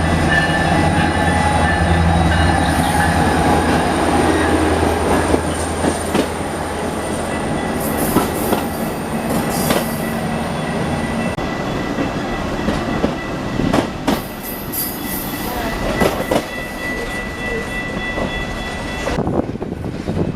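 A train passing on the tracks: a diesel locomotive's engine drones for the first half, with steady high wheel squeal over it. After that come scattered clicks and knocks of the wheels over the rail joints.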